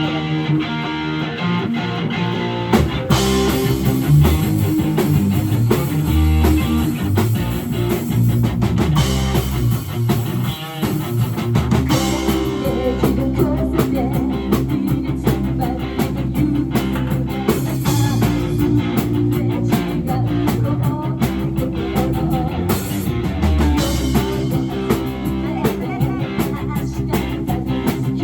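Live band playing a rock-tinged pop song on electric guitar and drum kit, the full band coming in about three seconds in.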